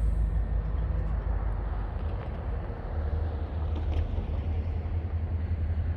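EMD GP40-2 diesel-electric locomotives, each with a 16-cylinder turbocharged two-stroke engine, running with a steady low drone as they pull forward and stretch the slack out of the train.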